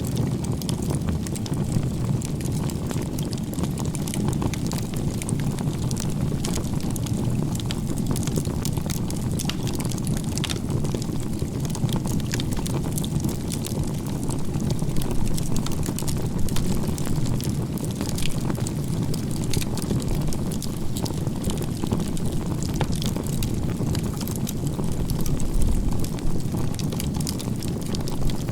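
Wood campfire burning in a log-cabin (igeta-gumi) stack of firewood: a steady low roar of flame with frequent small crackles and pops.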